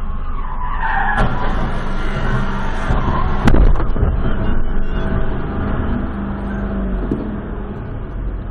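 A vehicle engine running, with a skidding screech about a second in and a sharp crash about three and a half seconds in.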